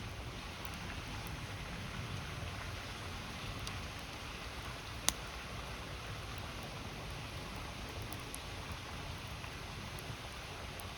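A river's steady rush with a wood campfire crackling over it: a few faint pops and one sharp pop about five seconds in.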